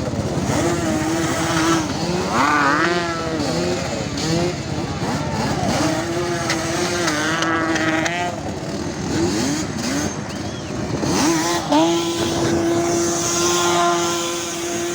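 Two-stroke engine revving up and down in repeated blips, then held at a steady pitch from about twelve seconds in.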